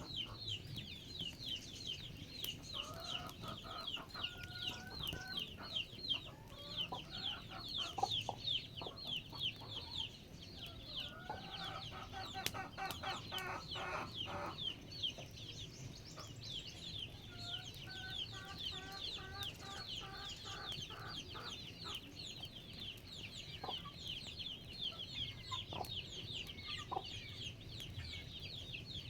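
Chickens clucking in three runs of quick, evenly spaced notes, over a steady fast, high-pitched chirping that keeps up throughout.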